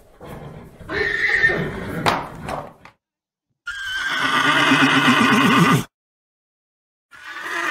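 Horse whinnying: a shorter, rougher call about a second in, then a long whinny with a shaking pitch from about four seconds in, and another starting near the end. Each one cuts off abruptly into dead silence.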